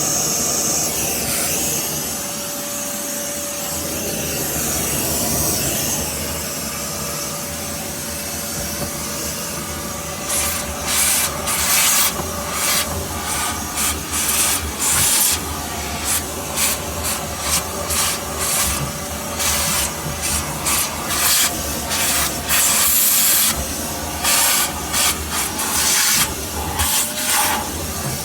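Vacuum cleaner running steadily, its nozzle rubbing over car carpet. From about a third of the way in, it gives many short, irregular hissing surges as the nozzle is worked back and forth.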